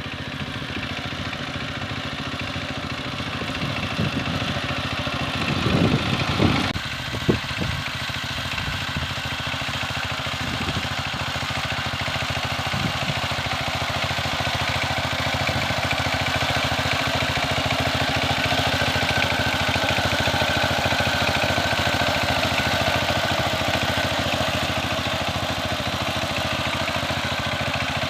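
Power tiller engine running steadily with a rapid, even beat, swelling louder for a moment about six seconds in, followed by a single sharp knock.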